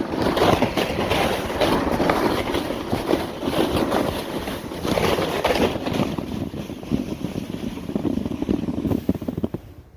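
Sled sliding fast down a snowy hill, a rough scraping hiss over the snow mixed with wind buffeting the microphone; it dies away near the end as the sled slows to a stop.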